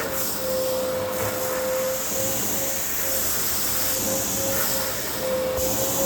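Household vacuum cleaner running steadily: a constant motor whine over the rush of air through the nozzle. The higher part of the hiss gets brighter near the end.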